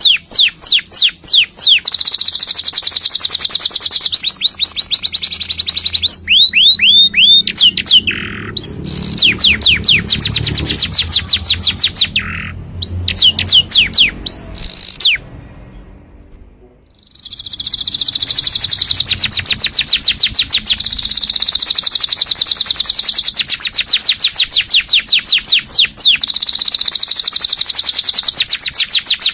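Domestic canary singing: long, fast trills of rapidly repeated down-slurred notes, broken by a brief pause about halfway through before the song picks up again.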